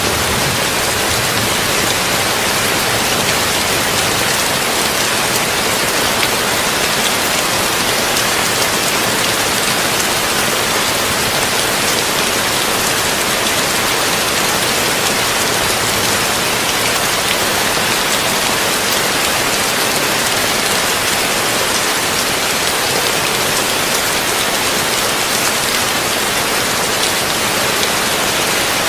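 Heavy rain on a tin roof, a dense steady hiss of drops with no let-up.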